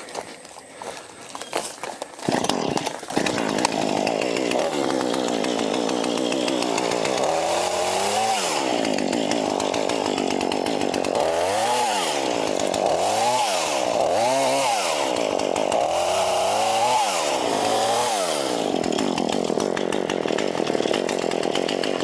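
Two-stroke chainsaw starting up about two seconds in, then running steadily and being throttled up and down over and over while cutting back vines and brush.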